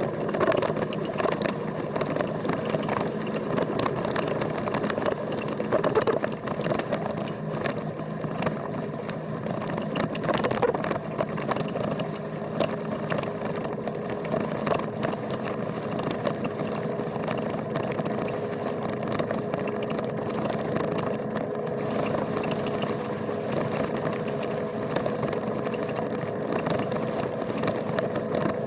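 Motorcycle engine running at a steady speed, its hum holding an even pitch, with scattered small knocks and rattles.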